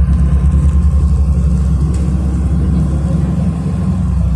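City bus diesel engine running, a loud steady low rumble with a fast even pulse, heard inside the passenger cabin.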